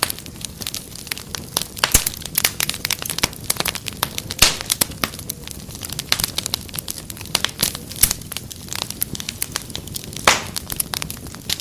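Fireplace fire crackling: a dense, irregular stream of sharp snaps and pops over a low steady rush of flames, with a few louder pops about two seconds in, around four and a half seconds, at eight seconds and about ten seconds in.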